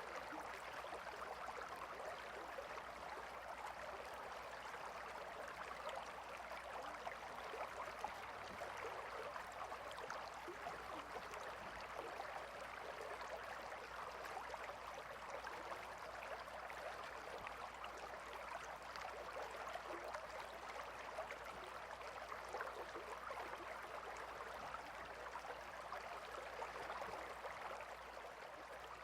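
A gentle river flowing: a steady, faint rush of running water.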